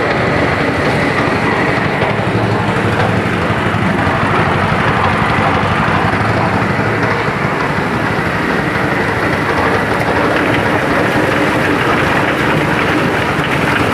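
Motor-driven chicken feather plucker running: a loud, steady mechanical clatter without a break.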